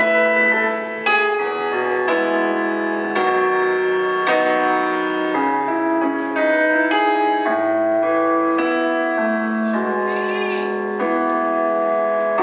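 Piano music: a slow run of struck, sustained notes and chords.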